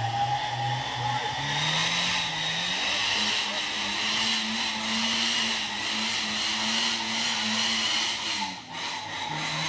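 Daihatsu Gran Max pickup's engine revving: the engine note climbs a little after a second, holds at higher revs for several seconds, then falls back near the end, with a steady high whine over it.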